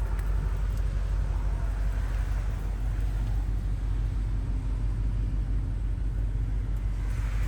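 BMW M5's 4.4-litre twin-turbo V8 idling: a steady low rumble.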